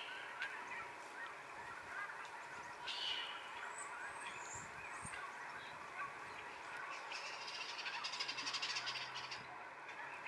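Farmyard fowl calling, with goose-like honks, over a steady outdoor background; a fast rattling trill runs for a couple of seconds near the end.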